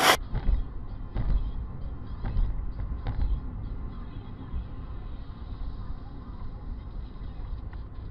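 A car driving, picked up by a dashcam: a steady low rumble of engine and road with scattered small clicks and rattles.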